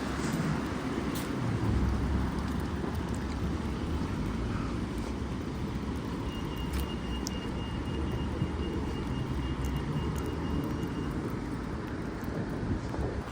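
Road traffic on a town street: a steady low rumble of passing cars and vehicles. A thin, steady high tone sounds for several seconds in the middle.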